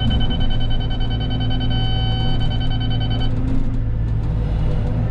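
Cat 313 excavator's diesel engine running steadily, heard from the cab. Over it a steady high electronic tone from the grade-control system's beeper, which cuts off about three seconds in.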